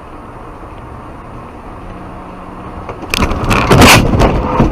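Steady road and vehicle noise, then about three seconds in a car crash: a sudden run of loud impacts and crunching lasting over a second.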